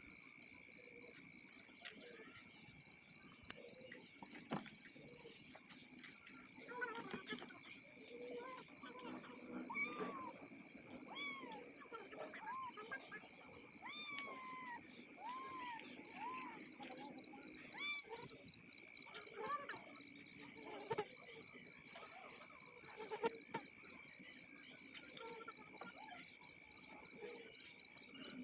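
Steady chorus of insects trilling high and continuously, with a string of short arched bird chirps through the middle and a few faint knocks.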